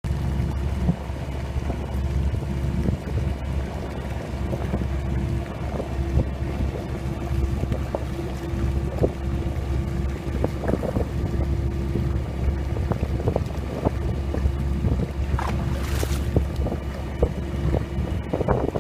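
Steady low mechanical hum with one held tone, like an engine running, mixed with wind on the microphone. A brief hiss rises about fifteen and a half seconds in.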